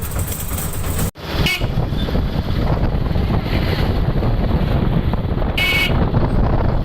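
Road traffic noise with wind buffeting the microphone, and two short vehicle horn beeps, about one and a half and five and a half seconds in.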